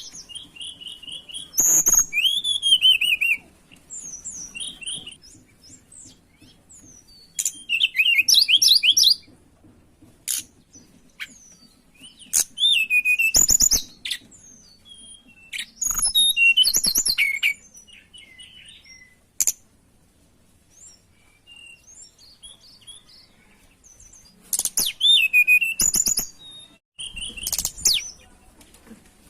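Tledekan gunung, a small flycatcher, singing in short, high, quickly warbled phrases with pauses between them: the excited territorial song of a bird in breeding condition.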